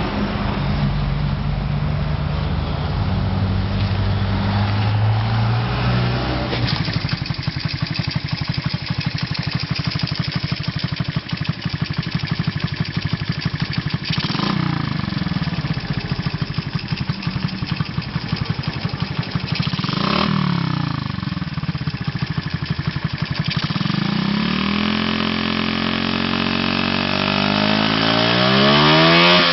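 Honda CD50 Benly's freshly overhauled four-stroke single-cylinder engine running at a fast idle, then settling to a steady, even idle about six seconds in. The throttle is blipped twice, and the revs rise repeatedly near the end.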